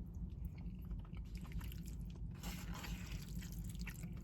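Close-miked chewing and biting of food, faint soft crunches and mouth sounds, over a low steady hum.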